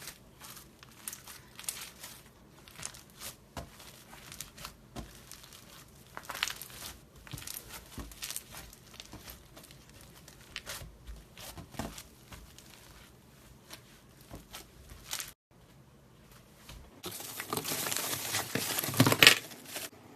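Slime being squeezed, poked and stretched by hand, giving scattered crackling pops and clicks. After a brief break about fifteen seconds in, a denser, louder run of crackling lasts about two seconds near the end.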